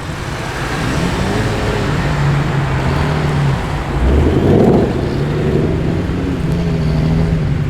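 Car engine running low and steady as a car rolls slowly past, with a brief louder surge of engine noise about four seconds in.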